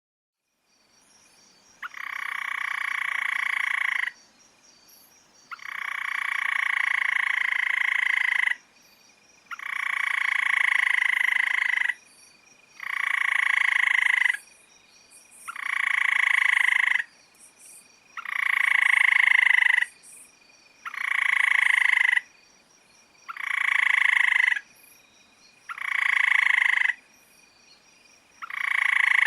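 An animal calling over and over with buzzy, croak-like calls, each one to three seconds long, the calls getting shorter and coming faster as they go on.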